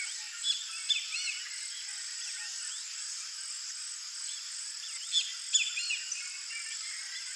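Dusk birdsong with many short chirping calls over a steady high-pitched insect drone, with a few louder bird calls about a second in and again just after five seconds.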